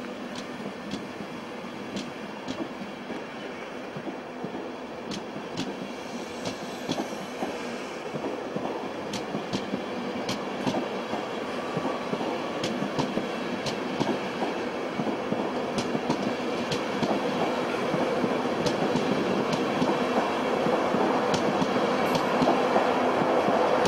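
GNER passenger train coaches rolling slowly past a station platform, a steady rumble with sharp wheel clicks over the rail joints. The sound grows steadily louder, and a steady mechanical hum comes in near the end.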